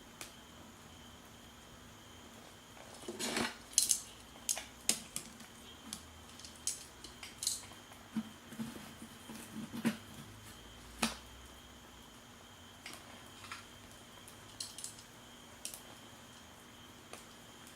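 Scattered clinks and clatters of cookware and utensils being handled, with a busy cluster a few seconds in and then sparser taps.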